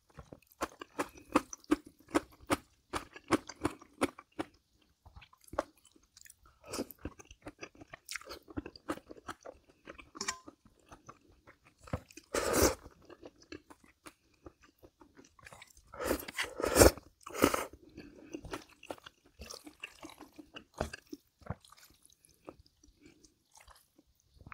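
A person chewing and crunching a meal of bibim naengmyeon cold noodles with crunchy vegetables and kimchi, close to the microphone. Steady chewing strokes at first, then sparser, with louder, longer bursts about twelve seconds in and again around sixteen to seventeen seconds.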